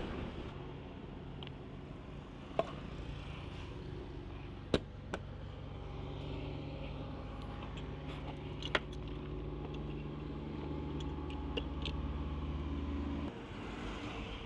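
An engine idling with a steady low hum that cuts off suddenly near the end, with a few sharp clicks and knocks from handling parts while a loose mini driving light is fixed on a motorcycle.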